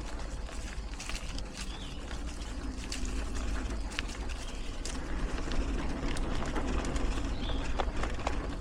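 Mountain bike ridden over hard, dry singletrack, heard from a helmet-mounted camera: a steady rumble of tyres and wind on the microphone with frequent small clicks and rattles from the bike and the bouncing mount.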